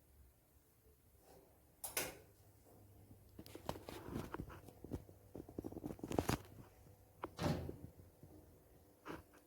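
Countertop convection oven being handled: a run of knocks, clicks and clatters, with louder knocks about two seconds in and again around six and seven and a half seconds in.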